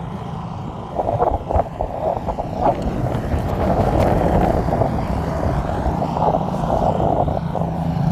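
Blizzard wind buffeting the microphone in rough, irregular gusts. A vehicle engine grows louder near the end.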